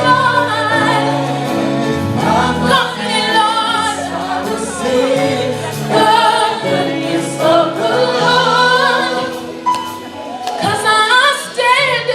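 Live gospel worship music: voices singing melodic, wordless lines with a choir, over sustained instrumental chords.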